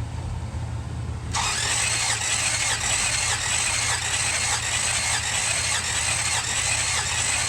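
1966 Buick Riviera GS engine cranked on its starter motor for a compression test of cylinder number 7, turning over without firing. The cranking starts about a second in and runs for about six seconds, with a whine that rises and falls in an even rhythm about one and a half times a second.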